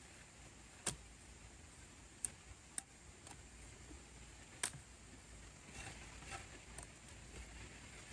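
Quiet background with a few short, sharp clicks or taps spaced irregularly over several seconds, four of them clearly louder than the rest.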